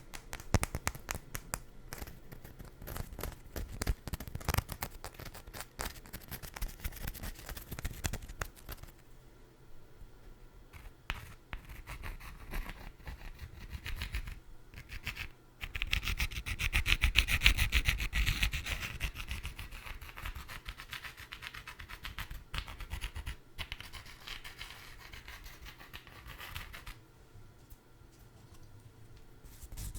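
Close-miked scratching, rubbing and crackly clicking on a food item, denser for the first several seconds. A louder stretch of rubbing comes a little past halfway.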